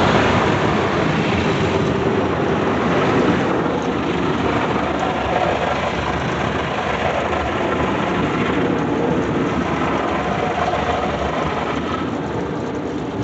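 Istobal Flex 5 automatic car wash spraying water onto the car, heard from inside the cabin as a steady, loud drumming rush on the body and glass.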